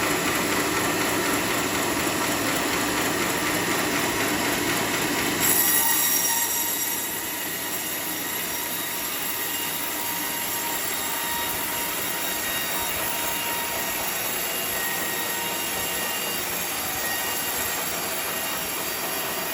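Sawmill saw running through teak timber with a steady, high-pitched screeching whine. About five seconds in the sound changes abruptly, turning briefly louder and shriller, then settles slightly quieter.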